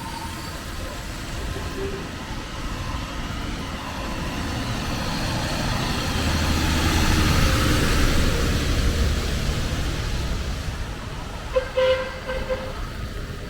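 A motor vehicle passing close by, growing louder to a peak about midway and then fading away, with a brief horn toot near the end.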